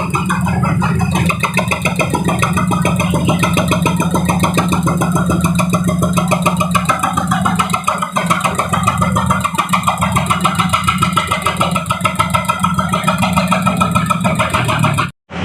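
Heavy construction machine's engine running steadily with a rapid, even pulsing, cutting off suddenly near the end.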